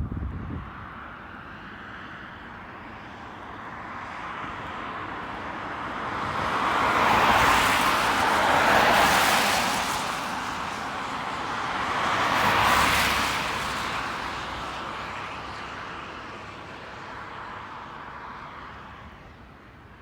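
A jet airliner passing by: a rushing engine noise swells to a loud peak about seven to nine seconds in, rises again briefly around thirteen seconds, and then fades away.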